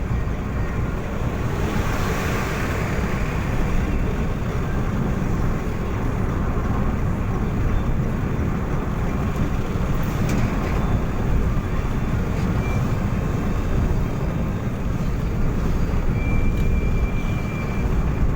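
Steady road and engine noise of a vehicle on the move, a continuous rumble strongest in the low end. A faint thin high tone sounds briefly near the end.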